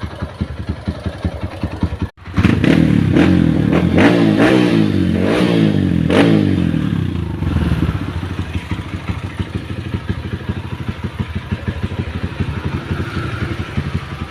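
Kawasaki KLX dirt bike's single-cylinder engine through an aftermarket GP7 exhaust, idling, then blipped several times about two seconds in so it runs much louder for about five seconds, before dropping back to a steady idle.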